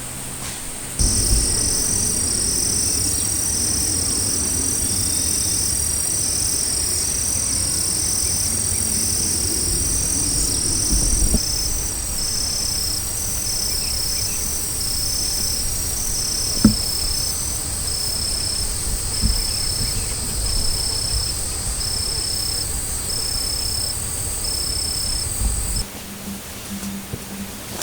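Night insects, crickets or katydids, calling: one steady high trill with two series of evenly repeated chirps under it, over a low rumbling background. There is a single soft knock about two-thirds of the way through.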